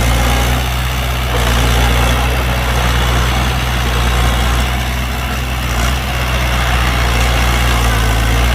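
Heavy diesel engine of an earthmoving machine running steadily at a low, even idle, easing off slightly twice.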